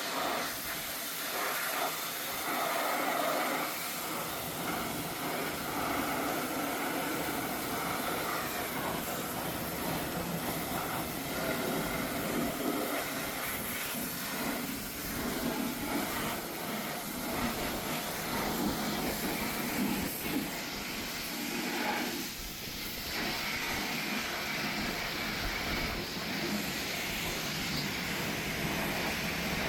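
Car-wash equipment running with a continuous hiss that shifts in tone, dropping briefly a little after twenty seconds in.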